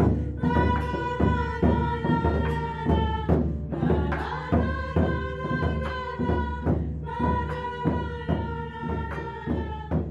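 Voices singing long held notes together in phrases over a steady drumbeat of about three beats a second.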